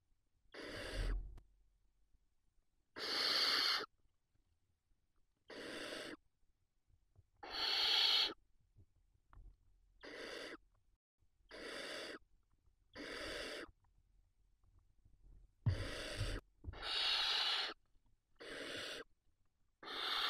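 Barn owl chicks giving their hissing begging calls: about a dozen breathy hisses, each under a second long, one every one to two seconds.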